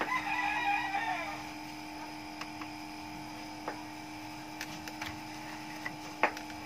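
A bird crows in the first second and a half, its call falling away at the end. Then comes a steady hum with a few faint clicks and one sharper click near the end, as the DVD player's loading tray slides open.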